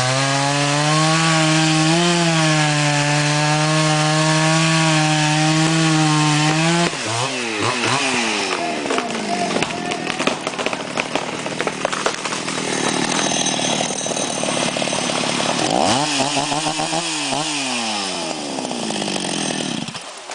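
Two-stroke chainsaw held at full throttle, then dropping in pitch as it bites into the wood about seven seconds in. Several seconds of rough cutting noise follow while felling a tree. Near the end the engine note falls again and the saw stops.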